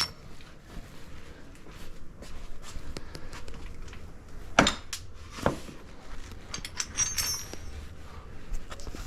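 Steel transmission parts being handled and set down: scattered light clicks and knocks, two louder knocks about four and a half and five and a half seconds in, and a short metallic jingle about seven seconds in.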